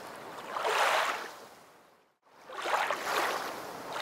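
Swells of rushing, lapping water noise, each rising and falling over about a second. The sound cuts to dead silence for a moment about halfway through, then comes back.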